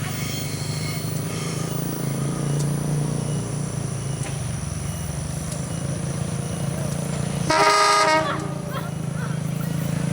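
Diesel locomotive passing with a steady low engine drone, sounding one short horn blast about seven and a half seconds in.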